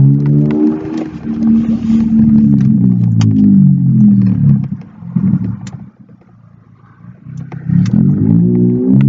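Exhaust note of a 2004 Acura TSX's 2.4-litre four-cylinder through a straight-piped single-exit exhaust. It is loud for the first five seconds with its pitch falling, drops away to quiet about six seconds in, then comes back loud with its pitch rising near the end.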